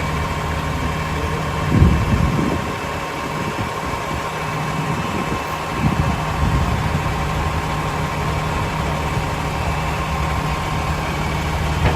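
Vehicle engine idling steadily, with two brief louder low surges, about two seconds in and again about six seconds in.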